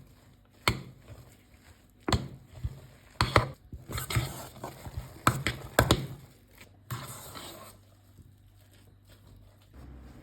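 Sharp knocks at uneven intervals, some in quick pairs, with stretches of scraping or rustling in between.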